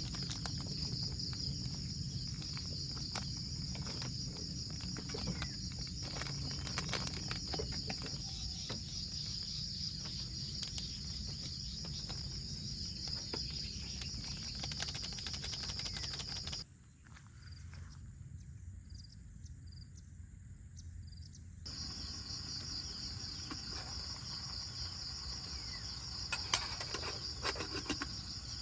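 Steady high-pitched insect chorus, crickets trilling without a break, over a faint low rumble and scattered light clicks. About two-thirds through it cuts away for a few seconds to a much quieter background, then comes back, with a few sharp taps near the end.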